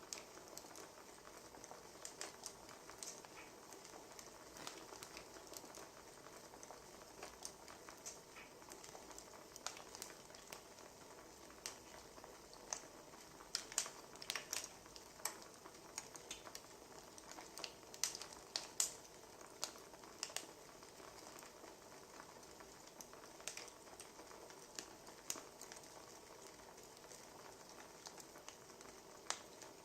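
Wood fire crackling: a steady low hiss with irregular sharp pops and snaps, a few of them louder than the rest.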